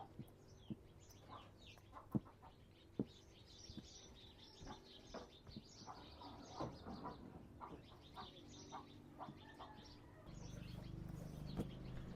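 Faint, high bird chirps, clustered in the middle, with scattered small clicks and taps; a low steady hum comes up near the end.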